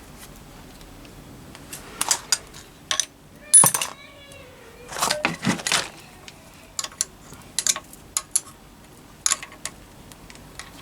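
Metal hand tools and engine parts clinking and knocking against each other: a scattered run of sharp metallic clicks, the loudest about three and a half seconds in, followed by a brief ringing tone that falls away.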